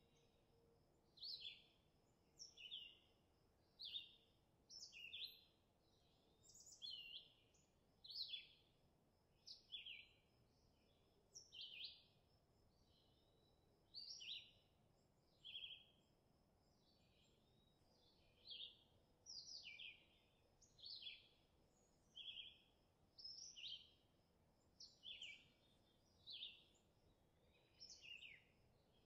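A bird singing: a steady series of short, high chirps, some sliding down in pitch, about one every second and a half.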